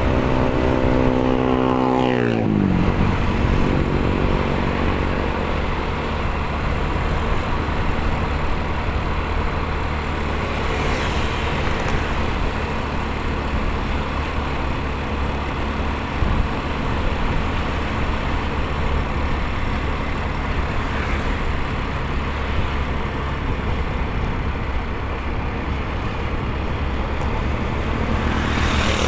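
Motorcycle ride heard from the rider's position: engine running under steady rushing wind and road noise. The engine's pitch drops steeply about two seconds in and climbs again near the end.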